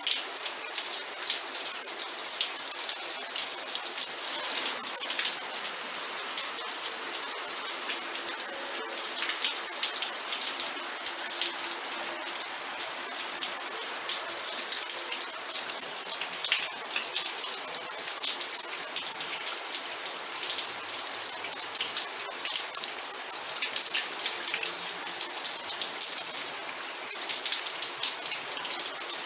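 Steady rain, with a dense patter of individual drops ticking.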